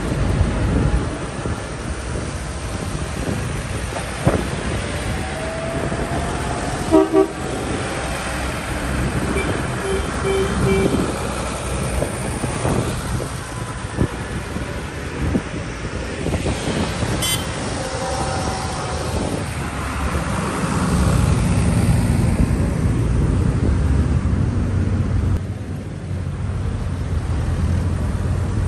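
Vintage tractor engines running steadily on a road, with a quick double toot of a horn about seven seconds in and a few more short toots a few seconds later; the engine noise grows louder near the end.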